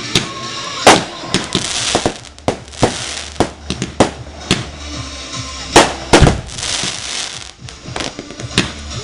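Fireworks going off: a rapid, irregular series of sharp bangs and pops with crackling hiss between them, the loudest bangs about a second in and around six seconds in.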